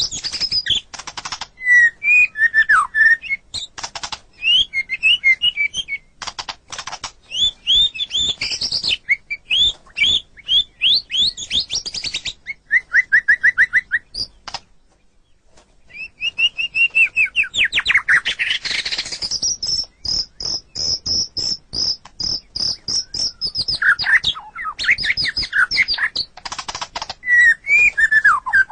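White-rumped shama (murai batu) singing a rapid, varied song of whistled phrases, quick sweeping notes and sharp chattering clicks. There is a brief pause about halfway through, then a long high trill.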